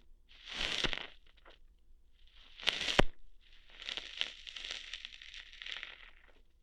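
ASMR ear-hair plucking sounds made close on the microphone: crackly, crunching scratches in three bursts, the second ending in a sharp snap about three seconds in, the last one longer and grainy.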